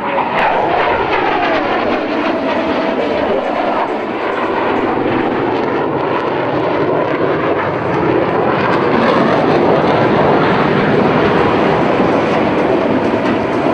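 F-16 fighter jets' engines at display power: a loud, sustained jet rush with a falling whine in the first couple of seconds.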